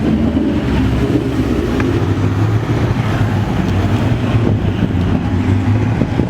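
Car engine running at a steady, unchanging pitch, a low drone with no revving.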